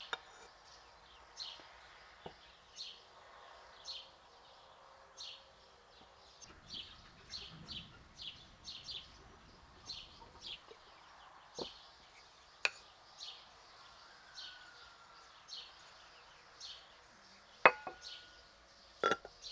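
A small bird chirping over and over, one short high chirp every half second to a second. A few sharp clicks or knocks come through, the loudest two near the end.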